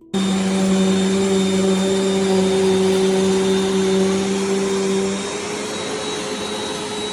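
Bissell CleanView Compact upright vacuum cleaner running, a loud steady motor hum and rush of air with a faint high whine. About five seconds in, the lower part of the hum drops away and the sound gets slightly quieter.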